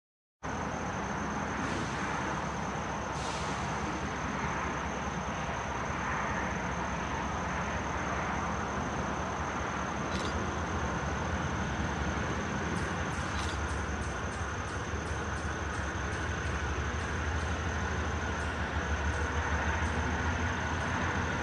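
Train with its diesel locomotive running steadily, with a low engine hum and a faint steady high whine. About halfway through, a regular light ticking joins in.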